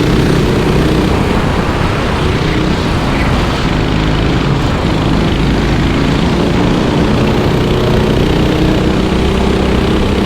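Kart engines running with a steady, continuous drone.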